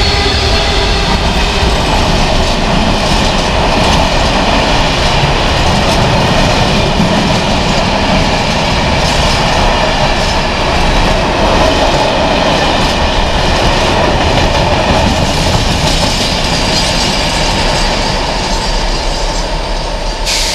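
Freight train passing close by: the Class 66 diesel locomotive's engine heard at the start, then a long rake of tank wagons rolling past with a steady loud rumble and clatter of wheels on the rails.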